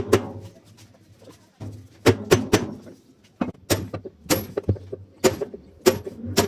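Repeated sharp knocks and clicks of hand tools and metal parts being worked on a washing machine under repair, in short clusters of several strikes with pauses between, over a faint low hum.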